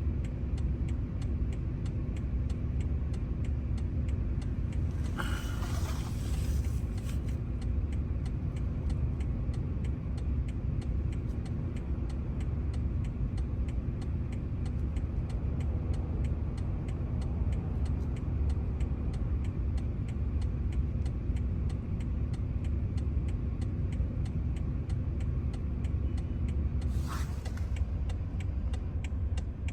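Steady low rumble with a constant hum, like a vehicle engine running, with two brief higher-pitched sounds, one about five seconds in and one near the end.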